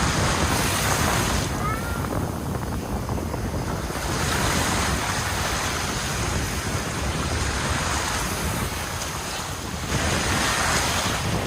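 Sea surf washing up the beach in swells of hiss that come and go, with wind buffeting the microphone in a steady low rumble.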